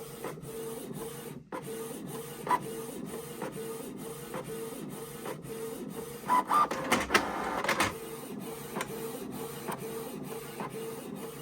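A small motorised machine running with a steady, repeating mechanical whir of about three beats a second and light clicks, louder for about a second and a half past the middle.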